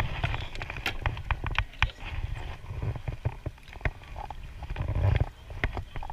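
Irregular knocks and clicks of paddle and gear on a kayak, over low wind rumble on the microphone.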